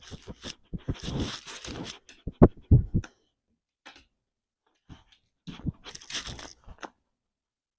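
A dog's mouth and nose working close to the microphone: irregular crunching and rustling with a few sharp knocks, in two bouts with a quiet gap between.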